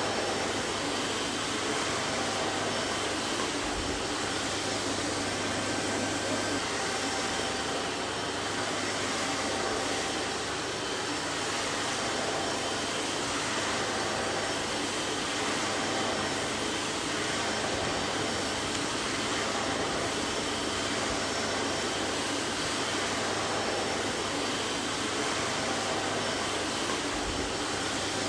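Vacuum cleaner running steadily: an even rushing of air with a constant low hum and faint steady whine, unchanging throughout.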